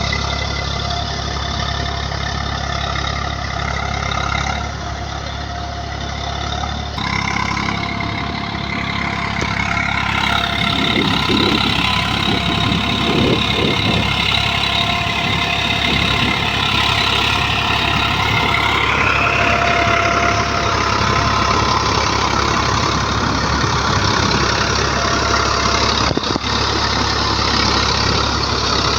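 Tractor engine running steadily while working a rotavator. About seven seconds in the engine note shifts, and from about ten to nineteen seconds the sound grows louder and rougher before settling back.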